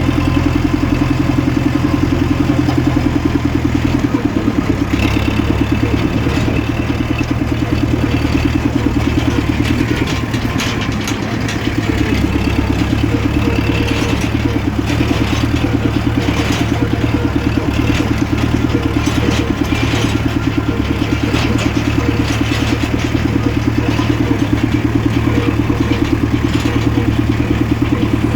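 1974 International four-cylinder 35 hp tractor engine idling steadily, just after a heater-assisted cold start, the first start of the day.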